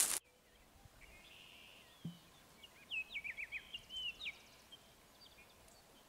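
A songbird singing a run of short, quick whistled notes over faint outdoor hiss in a spring forest, with one soft thump about two seconds in.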